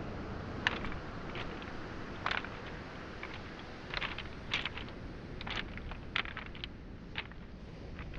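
Footsteps over beach pebbles and small boulders, sharp clicks of stones knocking together at irregular steps about a second apart, over a steady wash of waves on the shoreline.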